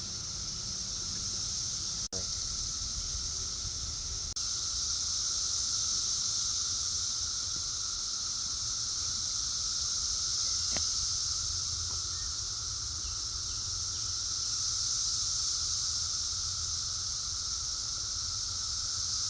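Chorus of periodical cicadas: a steady, high-pitched drone with a lower steady hum beneath it, unbroken throughout. The sound drops out briefly about two seconds in.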